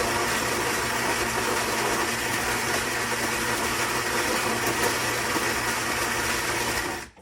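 Philips 3200 Series coffee machine's ceramic grinder grinding beans for a cappuccino, a steady mechanical whir with a hum, cutting off suddenly near the end.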